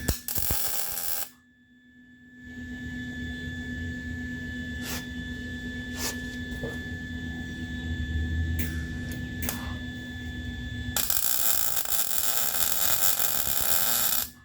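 Welding arc crackling on the steel frame rail: a short burst at the start, then a longer bead of about three and a half seconds near the end that stops abruptly. Between the two comes a steady electrical hum with a few light clicks.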